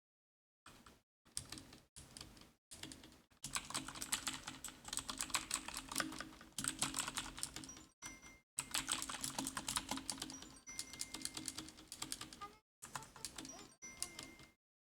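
Fast typing on a computer keyboard, a dense run of key clicks that cuts off abruptly and starts again several times.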